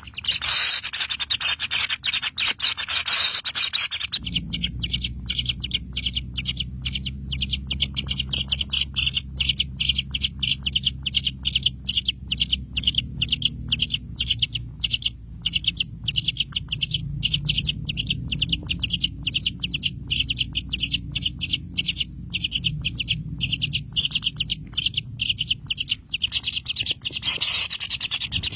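Bird chirping in a fast, even series of short calls. A low steady hum runs underneath from a few seconds in until shortly before the end.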